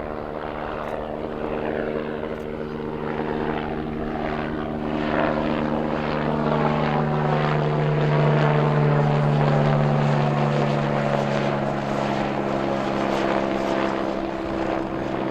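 Aircraft engines running nearby with a steady hum of low tones. The sound grows louder to a peak about eight seconds in while higher tones glide downward, as the aircraft passes.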